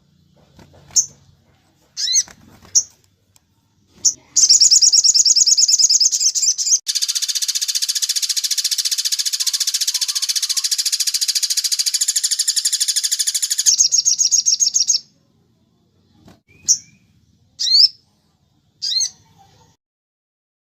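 Recorded songbird calls: a few short, high chirps, then a long, fast rattling trill lasting about ten seconds, then more single chirps.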